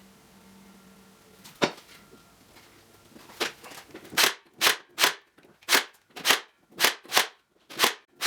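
Nail gun firing nails into pallet boards: one sharp shot, then after a short pause a quick run of about nine shots, roughly two a second.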